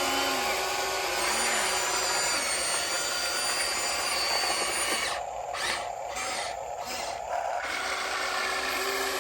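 RC excavator's electric motor and hydraulic pump whining under load, cutting out and back in several times between about five and seven and a half seconds in.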